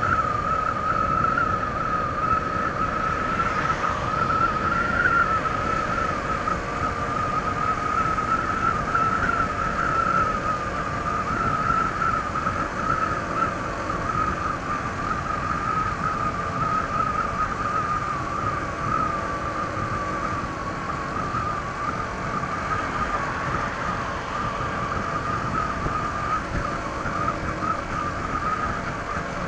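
Honda ADV 160 scooter on its stock exhaust, cruising at a steady speed: engine and road-wind rumble under a steady high whine that wavers slightly in pitch.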